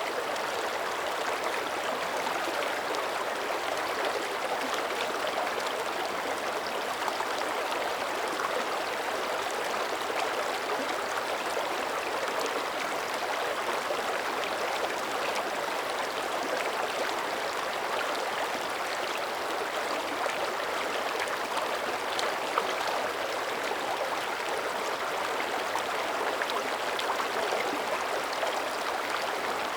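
Mountain creek running steadily: an even, continuous rush of flowing water.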